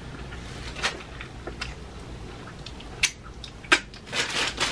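Close-miked chewing of a Subway sandwich, with wet mouth clicks and smacks. Near the end comes the crinkle of the sandwich wrapper paper being handled.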